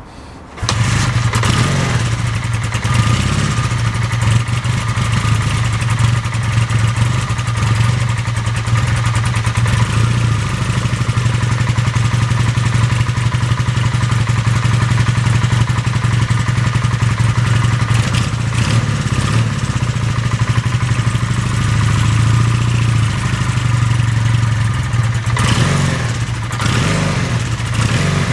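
Honda CB400A motorcycle engine running at a steady idle, coming in abruptly about half a second in. The engine is freshly revived and not yet in the best of running order, and it runs very vibey.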